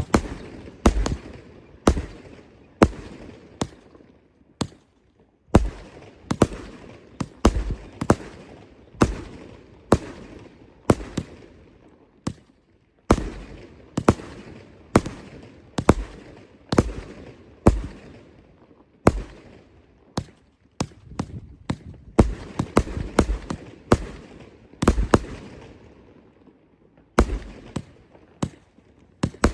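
Fireworks going off in a long string of sharp bangs, roughly one a second, each with a short echoing tail. The bangs come faster for a few seconds past the twenty-second mark.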